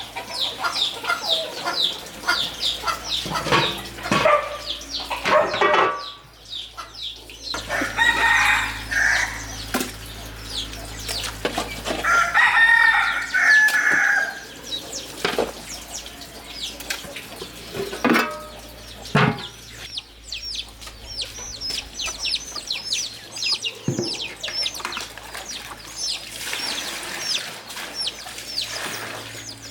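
Farmyard chickens calling: rapid high chirps run through most of it, with louder clucking calls and a rooster crowing for about two seconds near the middle. A few sharp knocks break in.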